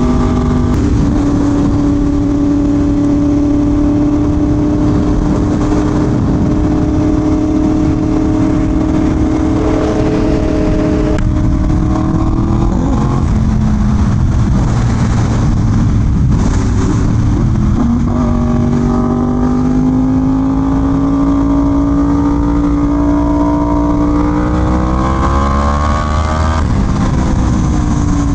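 Yamaha R1M's crossplane inline-four engine under way. It holds steady revs for the first ten seconds or so, eases off and varies around the middle, then pulls with a steadily rising pitch from about 18 s, and the revs drop near the end. A steady hiss of wind and wet road runs underneath.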